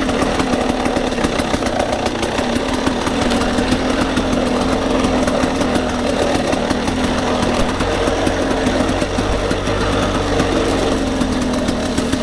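Dirt bike engine running at low, steady revs on a slick, muddy trail.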